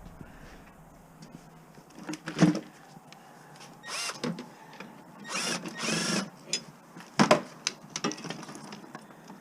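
Metal bus bars being handled and dropped onto a scrap pile: scattered clinks and knocks, the sharpest about two and a half and seven seconds in, with scraping and rustling between.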